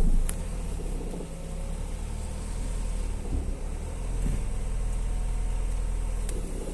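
Ford Focus 1.5 TDCi four-cylinder diesel idling steadily, with a metallic knocking rattle from its dual mass flywheel. The internal springs of the flywheel have failed, a fault the owner has confirmed.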